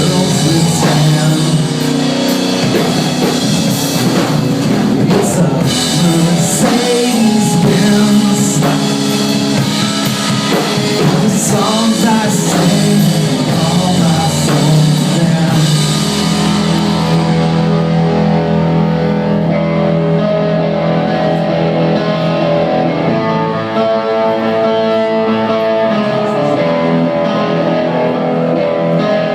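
Rock band playing with singing, electric guitars and drum kit. About halfway through, the drums drop out and the guitars carry on alone.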